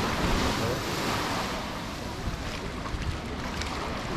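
Sea surf breaking and washing up the shore, swelling and fading, with wind rumbling on the microphone.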